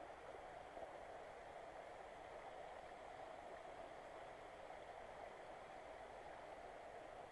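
Faint, steady rush of a rocky mountain stream running over its stone bed.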